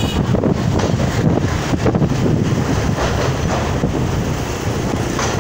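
Train running, heard from on board at an open window: a steady rumble of wheels on rails with wind buffeting the microphone.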